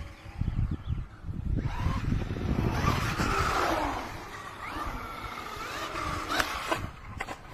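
Hyper Go H14BM V3 1/14-scale brushless RC truck being driven: the electric motor whines, rising and falling in pitch with the throttle, over a rumble of tyres on rough ground. A couple of sharp knocks come near the end.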